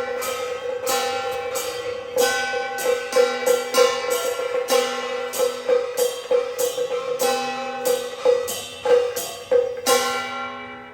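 Beiguan percussion ensemble, with drum, gongs and cymbals, playing a rapid, uneven rhythmic passage over a steady ringing pitched note. The strikes stop near the end.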